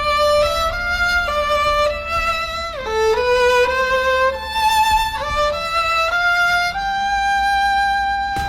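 Music: a solo violin playing a slow melody of held notes, with a slide down to a lower note about three seconds in.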